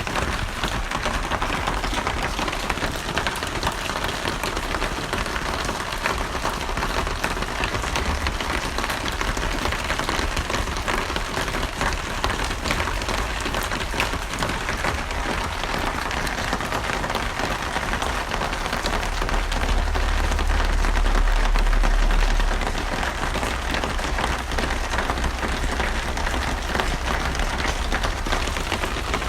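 Steady rain falling on a surface, an even hiss of many drops. A deep low rumble swells up for about three seconds about two-thirds of the way through, then fades back.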